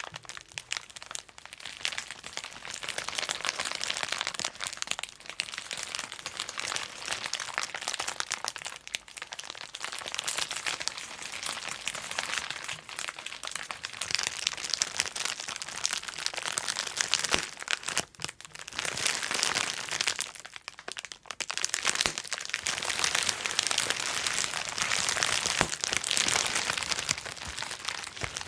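Bubble wrap being handled and popped: a dense, irregular run of sharp pops over a steady crinkling of the plastic sheet, with short lulls twice in the middle.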